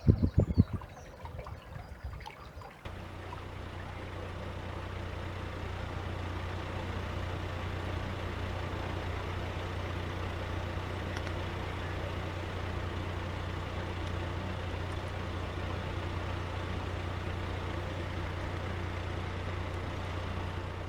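A small boat's motor starts running about three seconds in and then runs steadily with an even low hum.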